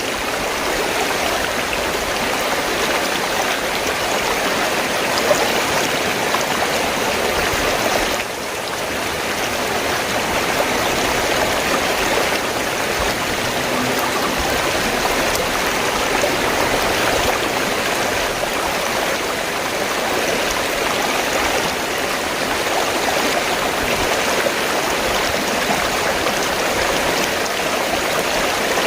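River water flowing steadily, a continuous rushing noise that dips briefly about eight seconds in.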